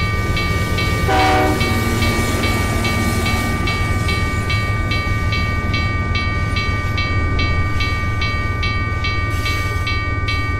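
Dubbed stock sound of a passing train: a steady low rumble with a thin high whine, and a short train horn blast about a second in. Over it, a regular high ticking at about three strokes a second.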